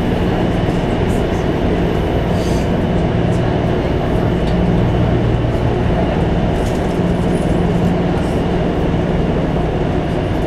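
A moving train's steady running noise: a low rumble and hum with no clear wheel beat.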